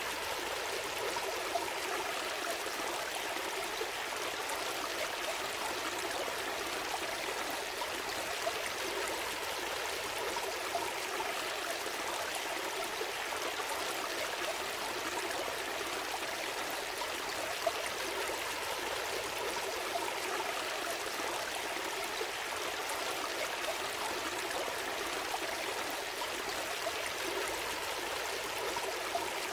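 A small stream flowing and trickling steadily, a continuous burble of water with occasional small splashes.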